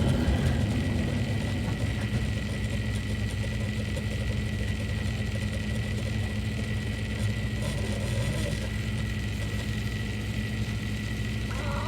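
A kitchen appliance humming steadily, with a thin high-pitched whine above the hum and a few faint small knocks.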